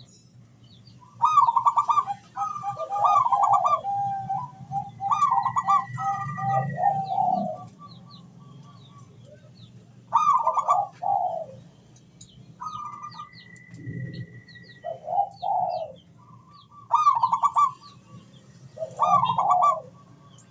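Zebra dove (perkutut) cooing in repeated rolling, bubbling phrases with short pauses between them. Thin high chirps of smaller birds sound above it.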